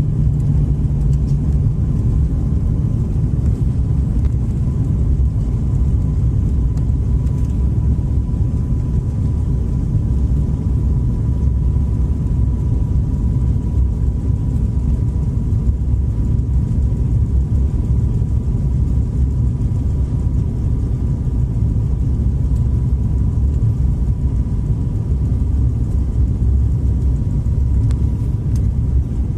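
Airliner cabin noise during the approach to landing: a loud, steady, low rumble with a faint steady whine above it.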